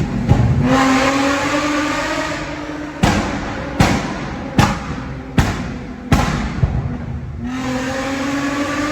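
Infiniti G35 coupe's V6 through a Tomei exhaust revving up, then five sharp loud pops roughly three-quarters of a second apart as the revs fall: the pops come from a tune made to pop and flame on the overrun. It revs up again near the end.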